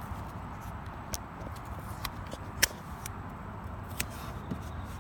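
Handling noise: four sharp clicks and taps, the loudest about two and a half seconds in, over a steady low background rumble.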